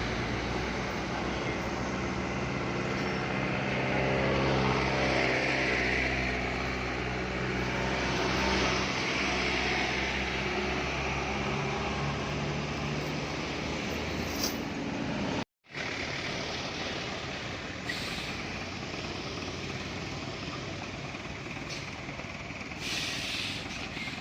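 Heavy truck's diesel engine running at a steady pitch. About fifteen seconds in the sound cuts out for an instant and comes back as plain road noise, without the engine's pitch.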